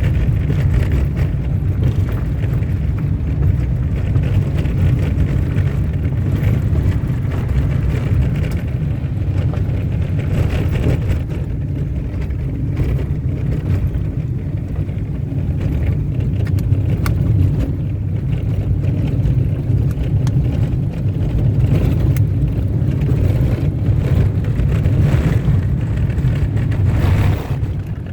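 Car driving along a dirt road: a steady low rumble of engine and tyres on the unpaved surface.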